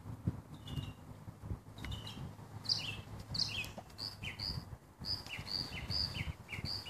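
A songbird chirping outdoors, a quick series of short two-part chirps, about two a second, beginning a couple of seconds in, over a faint low rustling.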